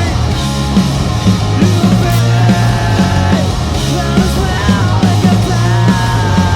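Live grunge-style rock band playing loudly and steadily, with electric guitars over bass and a regular drum beat.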